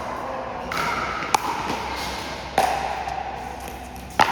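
Pickleball paddles hitting the plastic ball in a rally: three sharp pops roughly a second and a half apart.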